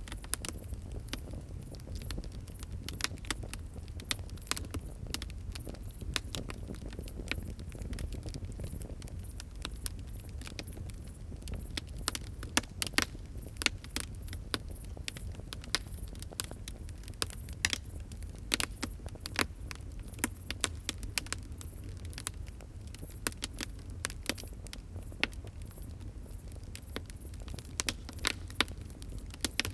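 Wood fire crackling: dense, irregular sharp pops and snaps over a low, steady rumble of burning.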